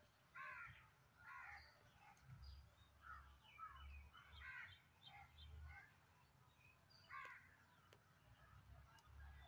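Faint bird calls: a series of short calls, irregularly spaced, with a low rumble underneath.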